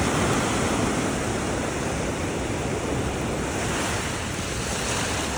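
Ocean surf washing steadily onto the beach, with wind buffeting the microphone; the wash grows a little brighter about four seconds in.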